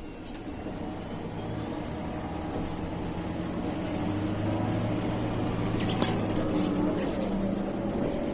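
MAN A21 city bus heard from inside the cabin while driving: engine and drivetrain running and growing louder, with a faint steady high whine and a short rattle or knock about six seconds in.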